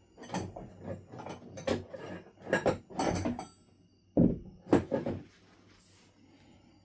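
Knapping on Knife River flint: a run of quick scraping, clicking strokes, then two sharp strikes on the stone about half a second apart.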